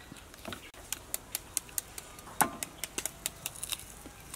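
Crunching of crisp green mango being bitten and chewed: a quick run of sharp crackles, about four or five a second, with one louder crunch about two and a half seconds in.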